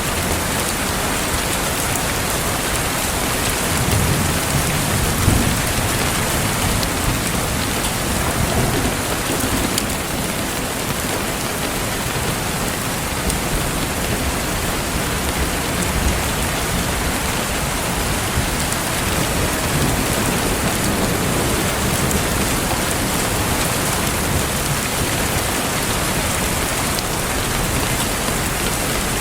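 Steady rain falling, with scattered faint crackles from a wood fire. A low rumble swells about four to nine seconds in.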